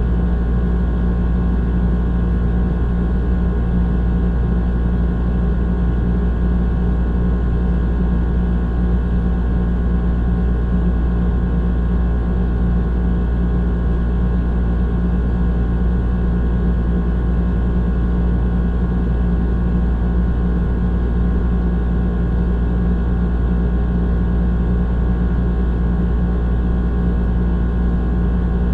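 Old air conditioner running: a steady, unchanging low hum and rumble with a droning tone.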